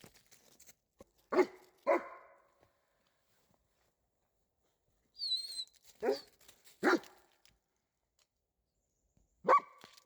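German Shepherd barking at a squirrel: five short barks in three groups, two close together, then two more, then a single bark near the end.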